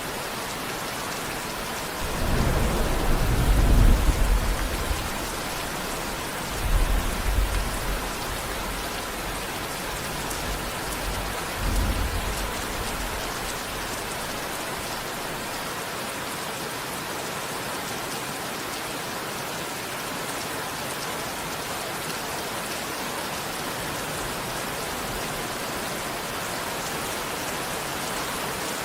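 Steady rain with thunder. A long low rumble of thunder comes about two seconds in, the loudest sound here, and two shorter rolls follow at about seven and twelve seconds.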